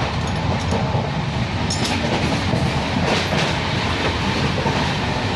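Passenger train running at high speed, heard through an open coach door: a loud, steady rumble and rush of the wheels on the rails, with a few sharp clicks.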